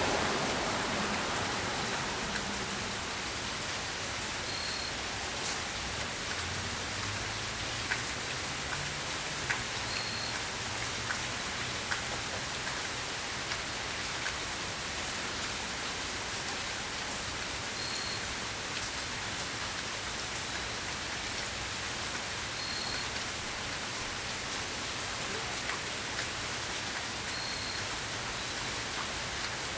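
Steady rain falling during a thunderstorm, an even hiss with a few soft drop taps. It is louder in the first couple of seconds, then settles.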